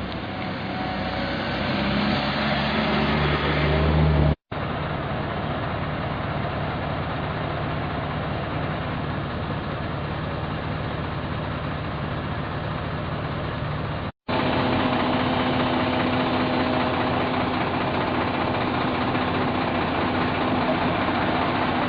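Heavy engines of road-repair machinery running steadily, growing louder up to about four seconds in. The sound breaks off abruptly twice, about four and fourteen seconds in, with a different engine note after each break.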